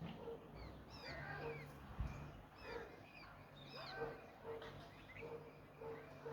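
Small birds chirping: a scatter of short, quick swooping calls, with a soft lower note repeating about once a second and a faint low hum beneath.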